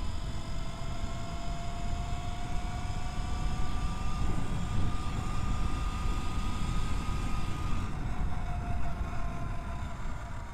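E-Ride Pro SS 3.0 electric motorbike's motor whining as it rides, the pitch rising slowly as it picks up speed and easing off after about eight seconds, over heavy wind rumble on the microphone.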